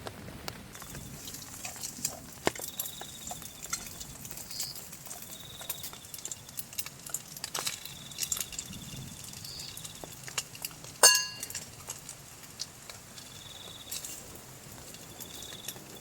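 Scattered drips and taps of water, with an insect trilling in short spells of about a second and a single sharp ringing clink about eleven seconds in.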